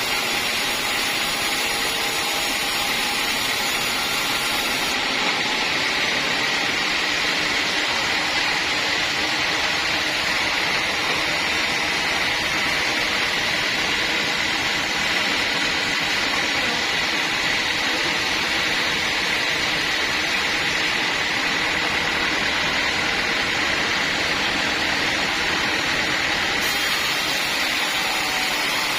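Sawmill saw machinery running steadily, with a constant high whine.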